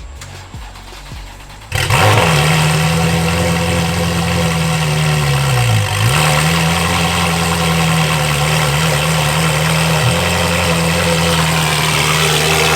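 Ferrari F12's naturally aspirated V12 starting about two seconds in and settling into a steady high idle. Its pitch sags once in the middle, then recovers.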